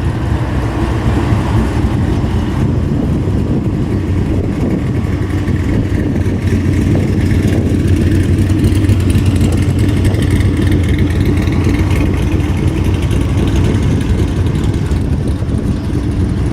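A car engine running steadily, loud and low-pitched, with some revving.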